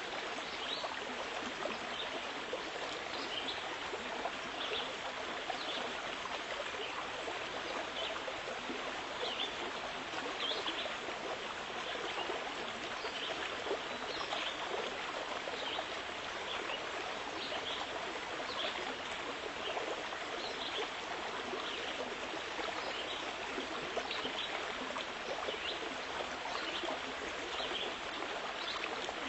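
Steady running water of a flowing stream, with small splashes.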